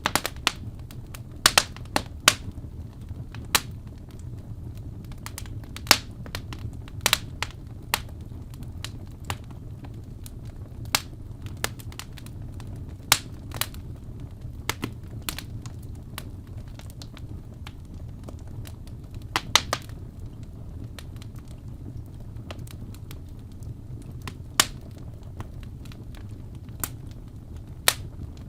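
Wood fire burning in a fireplace, crackling with irregular sharp pops and snaps, a few much louder than the rest, over a low steady rumble.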